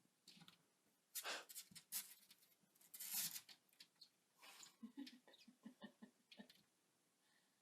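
Faint noises from a pet animal: three short noisy bursts in the first half, then a quick run of soft taps.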